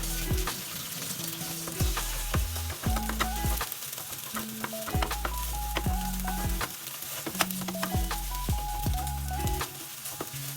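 Food sizzling in a frying pan, with a utensil stirring and clicking against it, over background music with a bass line and a simple melody.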